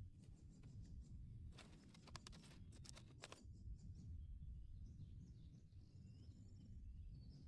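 Faint outdoor quiet: small birds chirping at intervals over a low rumble, with a run of crackling clicks lasting about two seconds near the middle.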